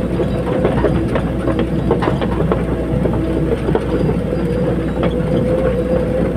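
Caterpillar 320D hydraulic excavator working, its diesel engine running steadily under a constant hum, with frequent short metallic clanks and knocks from the machine.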